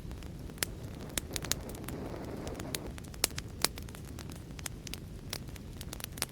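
Fireplace fire crackling: irregular sharp pops and snaps over a low steady rumble, with a brief rush of hissing about two seconds in.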